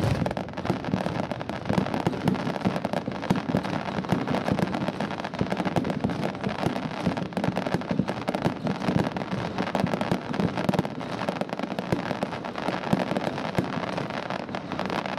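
Fireworks display: a dense, continuous run of crackling pops and bangs.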